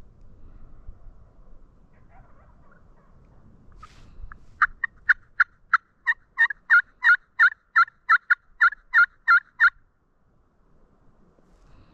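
A long series of turkey yelps, short notes repeated about three times a second, starting about four and a half seconds in and stopping shortly before ten seconds.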